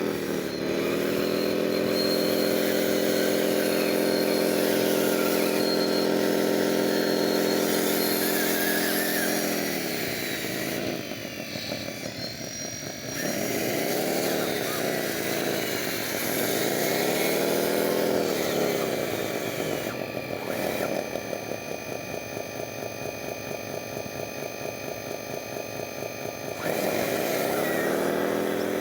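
Electric motors of radio-controlled construction models whining: a steady whine for about nine seconds, then a run of rises and falls in pitch as the speed changes, and a steady whine again near the end.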